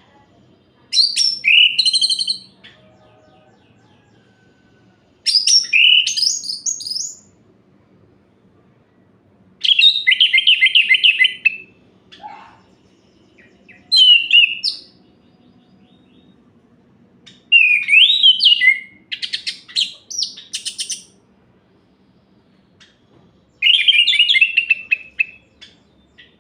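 Orange-headed thrush singing: six short phrases of rapid, varied whistled and warbling notes, each one to two seconds long, with pauses of a few seconds between them.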